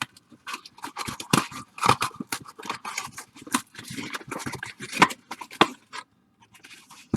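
Baseball card pack wrappers being handled: irregular crinkling and crackling of the packaging, with a short lull about six seconds in.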